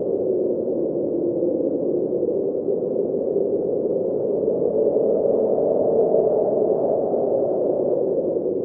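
Snowstorm wind blowing steadily: a dull, even rush with no high hiss, swelling slightly about five seconds in.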